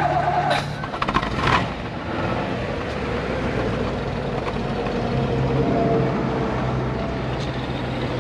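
1956 Ford Thunderbird's 312 Y-block V8 idling steadily just after starting, its exhaust leaving through the outlets in the rear bumper. A couple of sharp knocks in the first two seconds.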